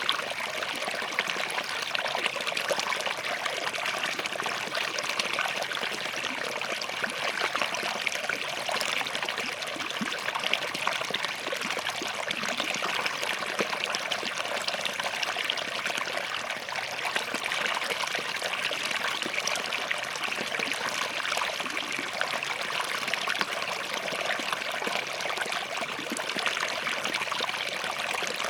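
Small forest stream running over and between rocks, a steady babble and trickle of water with no let-up.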